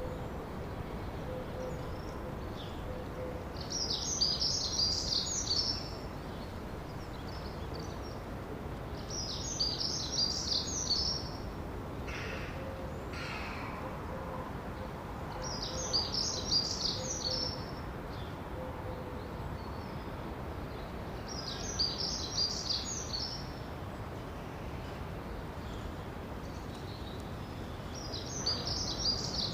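A songbird repeating a short, fast, high twittering song of about two seconds, five times at roughly six-second intervals, over a steady background hiss.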